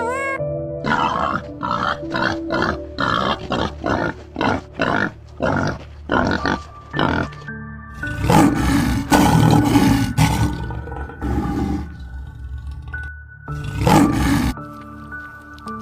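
A large animal calling over background music: a run of short grunts about two a second, then a long loud call about eight seconds in and a shorter one near the end.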